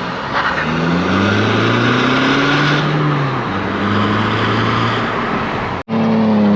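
Car engines revving. The engine note climbs for about two seconds and then falls back. It cuts off suddenly near the end.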